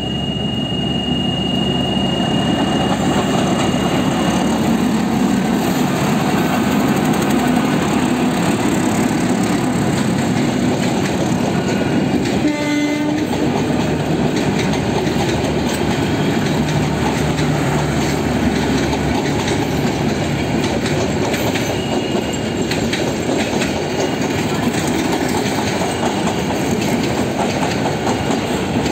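Bangladesh Railway passenger train coaches rolling past close by, a steady loud rumble and clatter of wheels on rail. A short horn note sounds about halfway through.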